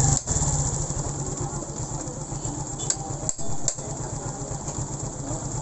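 Suzuki Smash 115 single-cylinder four-stroke engine idling steadily, with an even low pulse and a few light clicks around the middle. The idle is one the mechanic calls okay after the carburetor's air-screw repair.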